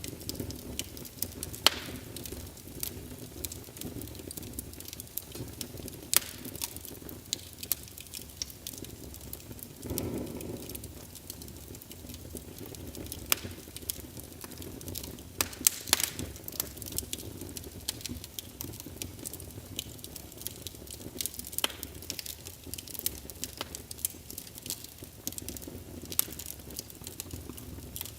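Wood logs burning in a fireplace: irregular sharp crackles and pops over a steady low rumble of the flames, with a brief louder rush about ten seconds in.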